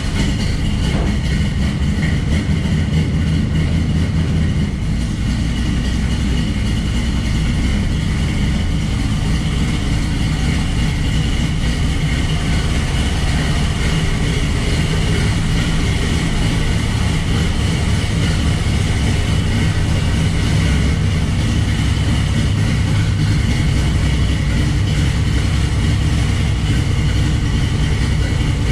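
Loud Chevrolet small-block 350 V8 fitted with Sniper EFI fuel injection, running steadily just after being started.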